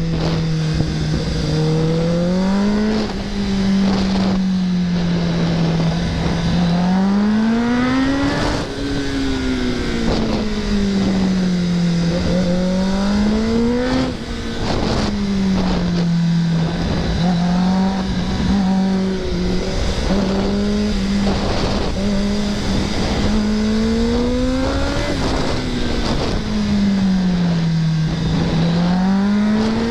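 Kawasaki ZX-10R's inline-four engine under way, its pitch climbing and falling again and again as the bike accelerates out of bends and rolls off the throttle, with about five rises over the stretch.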